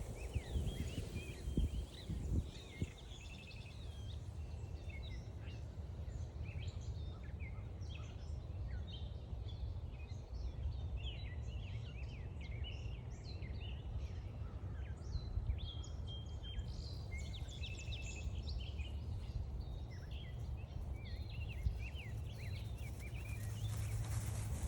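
A chorus of many songbirds singing and calling over each other, with short chirps and trills throughout. A low steady rumble lies beneath, with a few soft thumps in the first couple of seconds.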